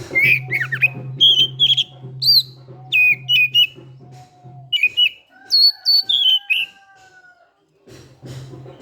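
Oriental magpie-robin (kacer) singing a rapid run of loud, sharp whistled notes with quick jumps and slides in pitch. The song stops about two-thirds of the way through. Background music plays beneath it and drops out about halfway through.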